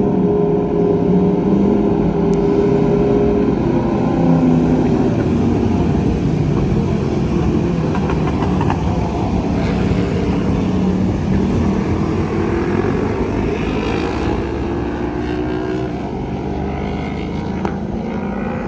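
2020 Yamaha R1's crossplane inline-four engine running under way, its note drifting up and down with engine speed, over heavy wind rush on the bike-mounted camera.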